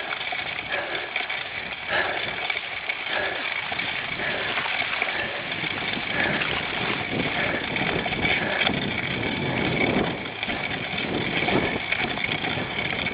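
Cyclocross bike ridden hard over rough ground: a steady rumble from the tyres and frame, with many small knocks and rattles.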